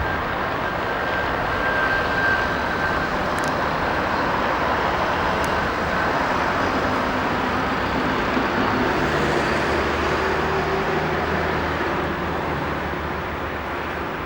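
Diesel train running on the tracks, a steady rumble with a thin high squeal for the first few seconds. A low engine hum comes in a little past halfway.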